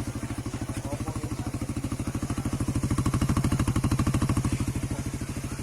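Suzuki Raider 150 Fi's single-cylinder four-stroke engine idling with an even, fast beat after a top overhaul. It grows louder for a second or so past the middle, then eases back.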